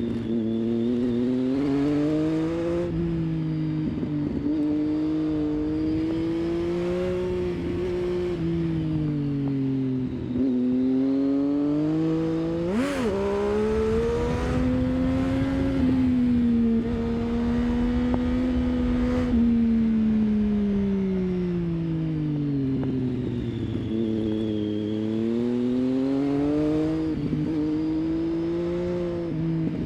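Triumph Street Triple 675's inline three-cylinder engine through an aftermarket exhaust, running under load as the bike is ridden through curves. The engine pitch rises and falls again and again as the throttle is opened and closed, with a quick sharp rev blip about halfway through.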